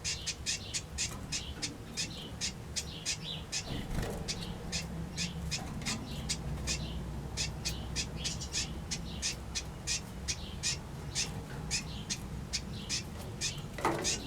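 Small aviary birds, finches and waxbills, calling all at once: a dense run of short high chirps, several a second, over a low steady hum.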